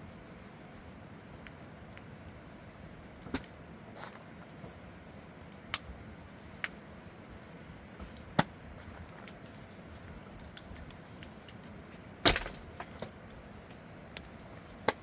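Scattered sharp knocks and clicks at uneven intervals over a faint steady background, the loudest a double knock about twelve seconds in.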